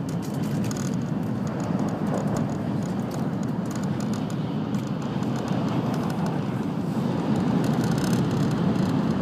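Steady running noise of an N700-series Shinkansen at speed, heard from inside the passenger car, growing a little louder near the end.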